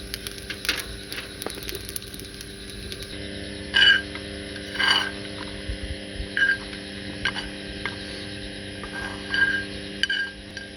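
A metal spoon clinking and scraping against a metal Sierra camping cup while eating, about six short ringing clinks from about four seconds in.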